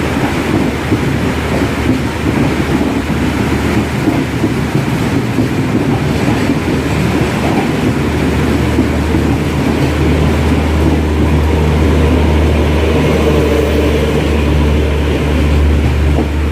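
Train running noise with a deep, steady hum from the WDP4D diesel locomotive's EMD two-stroke engine; the hum grows stronger about halfway through and holds to the end.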